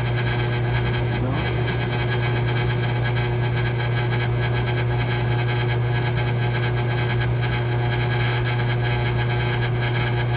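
A machine running steadily: a constant loud low hum with a dense hiss over it, unchanged throughout.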